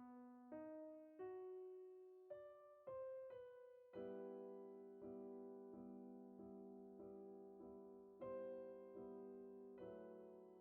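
Quiet solo piano background music: a slow line of single notes, each left to fade, then repeated soft chords from about four seconds in.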